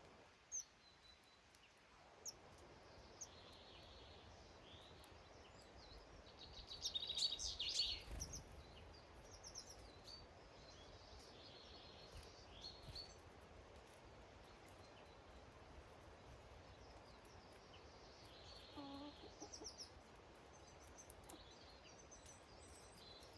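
Small garden birds (tits and finches at a feeder) giving short, high chirps and calls, with a louder flurry of calls about seven seconds in. A hen clucks briefly about nineteen seconds in.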